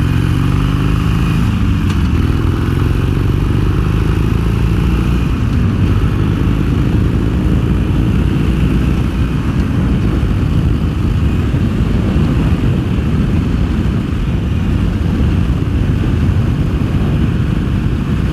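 Harley-Davidson Iron 883 motorcycle's 883 cc V-twin on its stock exhaust, rising in pitch as the bike accelerates over the first few seconds, then running steadily under way.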